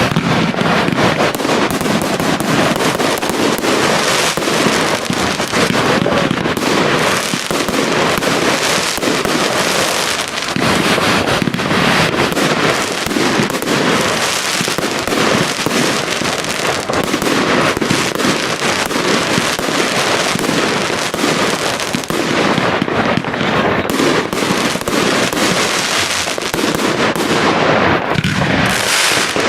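Large professional fireworks display: shells bursting in quick succession, the bangs overlapping with no pause.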